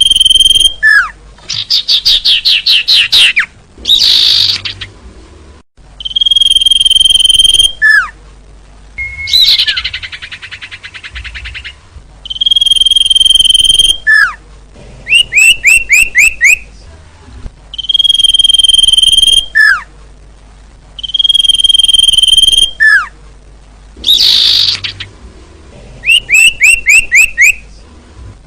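Recorded bird lure calls playing in a repeating loop. Each cycle is a long, steady, high whistled note, then a short falling note, then rapid trilled chirps, repeating about every six seconds.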